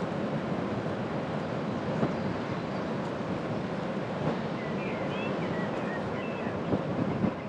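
Steady rumble of a moving bicycle: tyre noise and wind on the action camera's microphone. A few short bird chirps come about five to six seconds in, with some light clicks.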